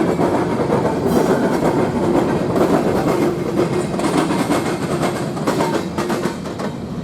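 A train rolling past, its wheels clacking over the rail joints, growing quieter near the end.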